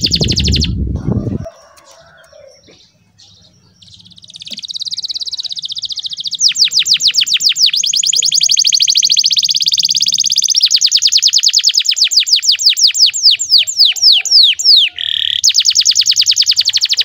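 Domestic canary singing a long song: fast trills and rolls of repeated sweeping notes, the notes spacing out a little before a short break and a final trill near the end. A brief low rumbling noise sounds under the song in the first second and a half, followed by a short lull.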